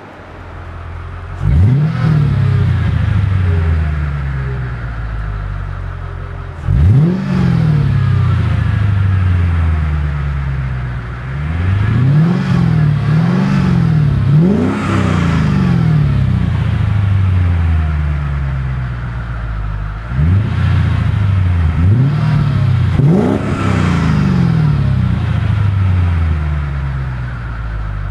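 Mercedes-Benz E55 AMG's M113 V8 being revved about eight times, each rev rising sharply and then falling away slowly, through an exhaust with the resonator and secondary cats removed and an X-pipe fitted.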